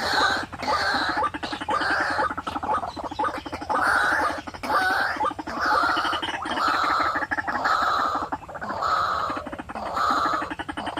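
White-breasted waterhen calling: a long run of harsh, repeated croaking notes, roughly one a second, over a fast rattling, gurgling undertone.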